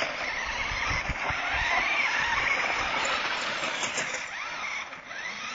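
Small battery-powered radio-controlled car driving, its electric motor whining with a pitch that rises and falls over the noise of the running gear.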